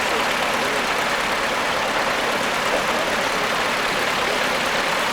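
Tractor engine running steadily at a low, even pace.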